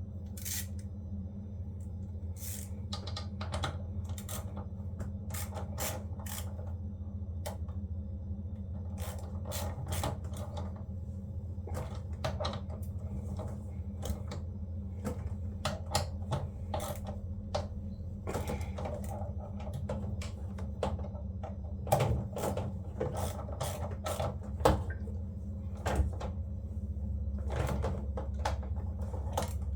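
Irregular clicks, taps and knocks, like hard parts and tools being handled during washing machine repair work, over a steady low hum.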